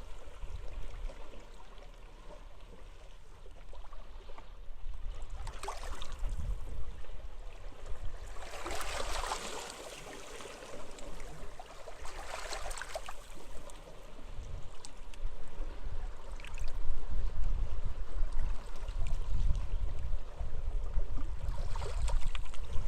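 Sea waves washing onto the shore in surges every few seconds, with gusty wind buffeting the microphone as a low rumble that grows louder in the second half.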